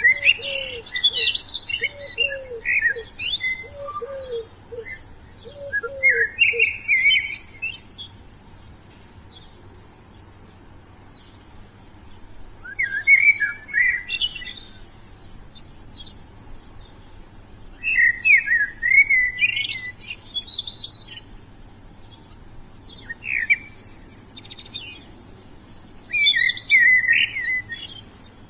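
Songbird singing in short, rapid phrases of high chirps and trills, a burst every few seconds with pauses between. Over the first six seconds a lower call repeats about ten times underneath.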